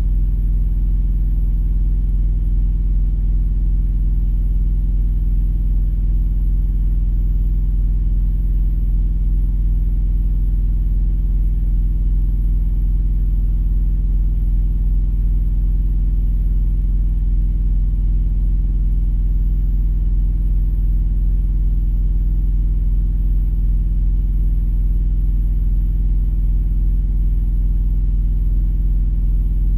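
Idling engine's steady low rumble, heard from inside a vehicle cab, with no change in pitch or level.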